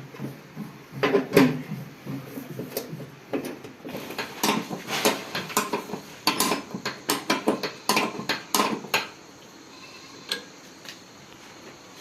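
Hand tools and steel tractor parts clinking and knocking during gearbox repair work: irregular sharp metallic clanks, a few about a second in, then a busy run from about four to nine seconds in, thinning out after.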